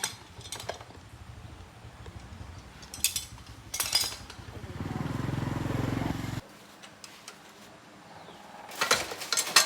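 A small motorcycle engine running with an even low putter, growing louder for a second or so, then cutting off suddenly about six seconds in. A few sharp metal tool clinks are heard around it.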